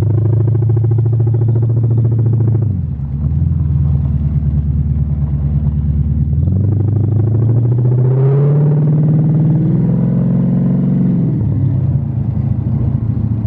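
The Jaguar's carburetted engine pulling hard under acceleration, heard from inside the cabin. Its note falls sharply about three seconds in, climbs steadily for several seconds in the middle, then falls again near the end.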